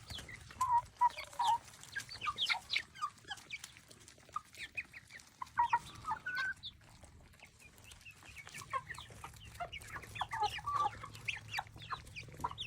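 Chickens clucking in many short, scattered calls while they eat, with small clicks among them.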